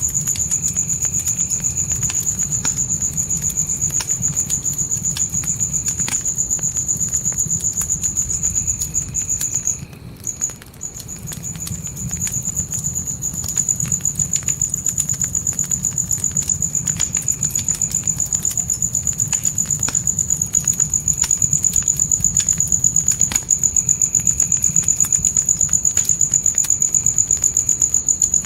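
Crickets trilling steadily in a loud, high pulsing chirp that breaks off for about a second roughly ten seconds in. Under it a campfire crackles with scattered small pops over a low rumble.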